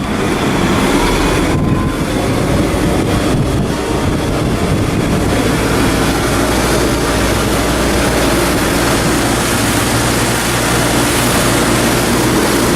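Mercruiser 302 Ford V8 sterndrive engine running steadily with the boat under way, mixed with a constant rush of wind and water.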